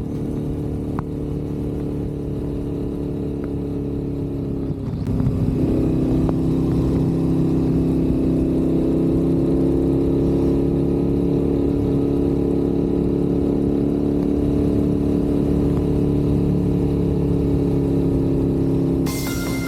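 Motorcycle engine running at a steady cruising speed. About five seconds in the pitch dips briefly, then settles at a new steady note and gets louder. Just before the end it gives way abruptly to a different sound with high steady tones.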